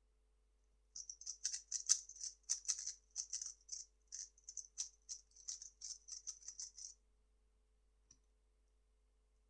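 3x3 speed cube being turned rapidly by hand, a fast run of light plastic clicking and clacking as the layers snap past each other, stopping abruptly after about six seconds.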